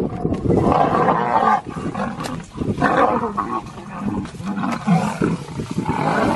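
Male lions fighting, with loud roars coming in several bouts.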